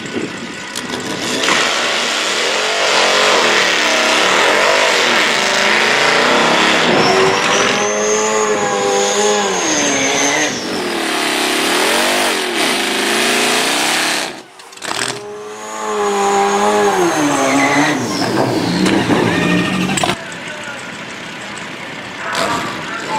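Racing engines at full throttle on a drag strip pass, the pitch climbing and dropping again and again as the revs rise through the gears. The sound cuts out sharply for a moment about two-thirds through, comes back climbing once more, then settles to a lower, steadier running near the end.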